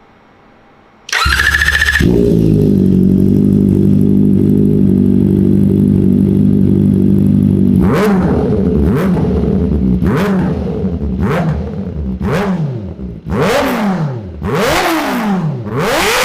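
Kawasaki Ninja sportbike's small inline-four engine started on the electric starter about a second in, then idling steadily. From about halfway it is revved in about eight quick throttle blips, each rising to a high pitch and dropping back.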